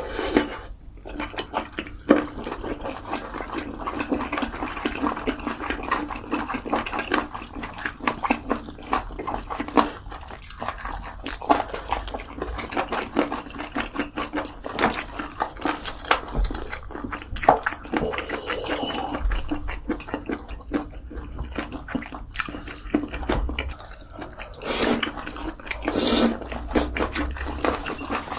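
Close-miked eating sounds: wet chewing, smacking and slurping of food, with many small crackly clicks.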